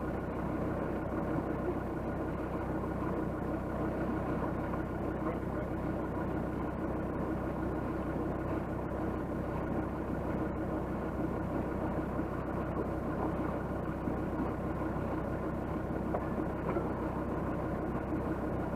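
A 4x4's engine idling steadily, heard close up with an even low hum.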